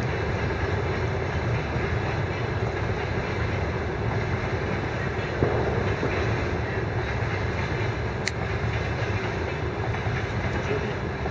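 A train passing on a nearby railway: a steady, continuous noise of the train running by, even in level throughout.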